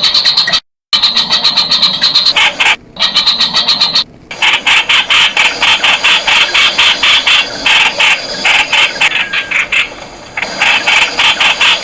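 Streak-eared bulbul calling: a fast run of short, sharp, repeated notes, about four or five a second, broken by a few brief pauses.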